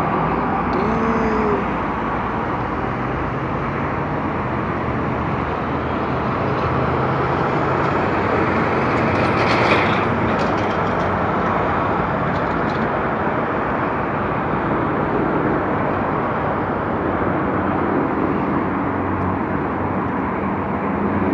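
Steady road noise of a car driving on a highway: tyre rush and engine hum, with a brief louder rush about ten seconds in.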